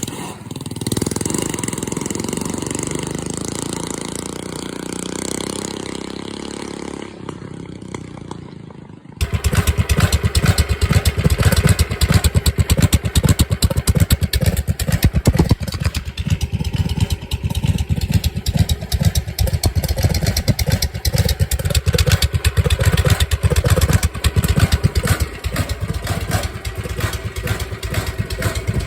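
Predator 212 single-cylinder four-stroke engine on a mini bike, running hard with loud, rapid exhaust pulses. It comes in abruptly about nine seconds in; before that there is a softer, steadier sound.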